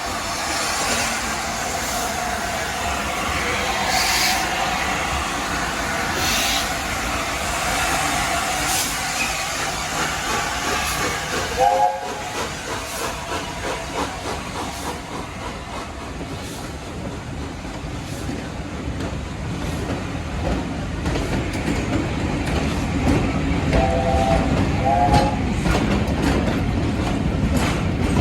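Steam train running with steam hissing and wheels clattering over the rails, growing louder toward the end. There is a short whistle blast about twelve seconds in and two short blasts near the end.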